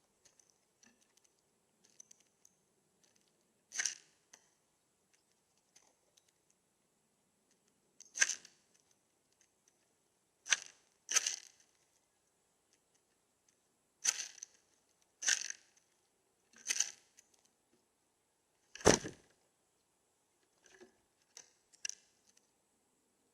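Irregular sharp taps and knocks on a bird feeder, about eight spread over twenty seconds, as a bird pecks and shifts on the feeder; the loudest, deepest knock comes late on, with a few faint ticks after it.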